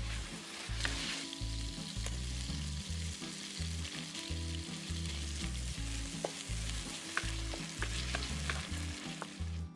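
Food sizzling in oil in a hot pan, stirred with a spatula that gives scattered scraping clicks.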